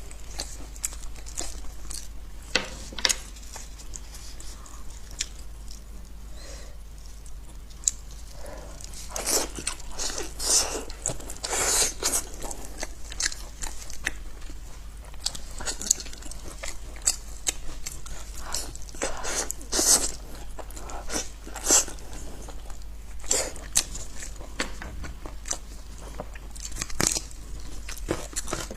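Close-miked chewing and biting of braised goat ribs: irregular crunchy bites and wet chewing, with a few louder crunches now and then, over a steady low hum.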